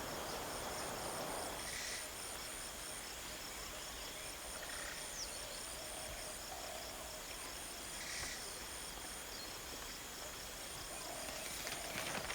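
Rural ambience: insects keep up a steady, high, pulsing chorus, with a few short bird calls over it.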